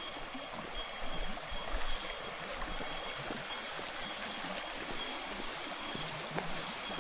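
Small waterfall spilling into a creek: a steady hiss of running water, with a faint high steady tone above it.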